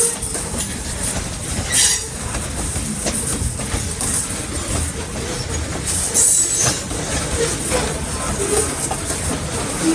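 Freight train rolling by, wheels clacking over the rail joints with short wheel squeals. Two louder noisy bursts stand out, about two seconds in and about six seconds in.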